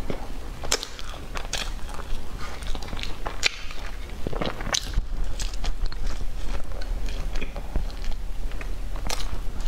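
Close-miked eating of a soft bread bun: the bun being torn apart and chewed, with irregular wet mouth clicks and smacks a few times a second.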